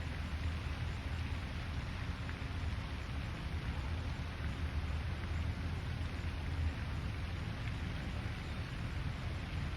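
Steady outdoor lake ambience: an even hiss with a low rumble underneath and a few faint ticks, with no single sound standing out.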